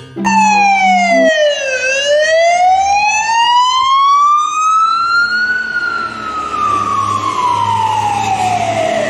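Fire service Command Support Unit's siren on a wail: one slow gliding tone that drops, climbs for several seconds and falls again.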